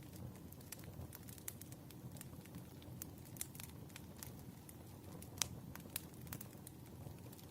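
Wood fire crackling: irregular sharp pops and snaps over a low steady rumble of burning logs, with one louder pop a little past the middle.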